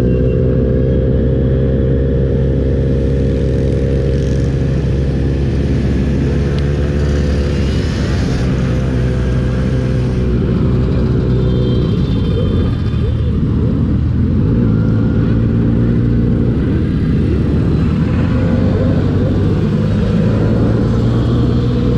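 Motorcycle engine running while riding, with a steady low rumble; the engine note drops about halfway through, then settles and rises again.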